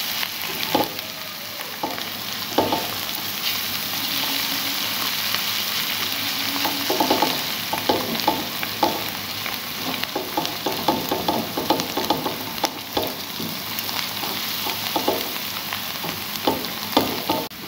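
Chopped onions and ginger-garlic paste sizzling in hot oil in a metal pan, stirred with a slotted plastic spatula that scrapes the pan in many short strokes.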